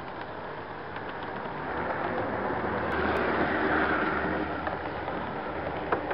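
HO-scale model train rolling along the track, heard from a flatcar in the train: a steady rumble of small wheels on the rails with motor hum. It swells about halfway through, then eases, with a sharp click near the end.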